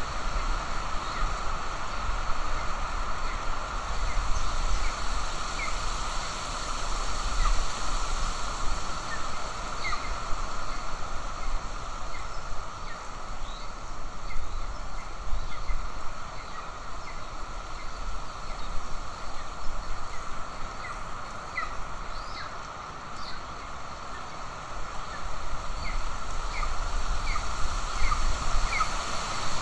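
Outdoor ambience on a golden eagle nest camera: a steady hiss with a low rumble, and short high bird chirps scattered through it every second or few seconds.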